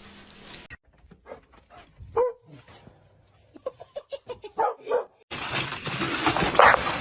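A dog barking and yipping in short calls, with one louder bark about two seconds in and a quick run of yips near the end. A loud, steady noise then cuts in abruptly.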